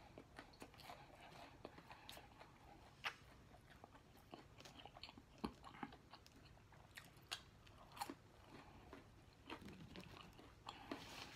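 Faint chewing of a McDonald's chicken McNugget, with irregular soft mouth clicks scattered throughout, a few louder than the rest.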